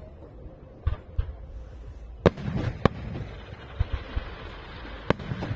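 Fireworks display: several sharp bangs of bursting shells at irregular spacing over a low rumble, the loudest a little over two seconds in.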